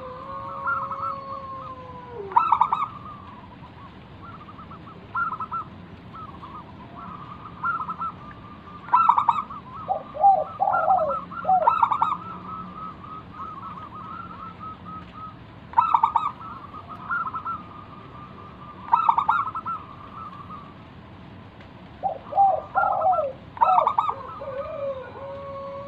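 Zebra dove (perkutut) singing its cooing song: repeated clusters of short, quick notes around a steady pitch, with a few lower sliding coos, every few seconds.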